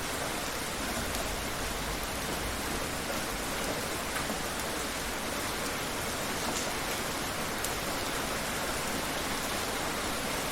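Steady rain falling, an even hiss of drops on surfaces, with a few faint individual drop ticks.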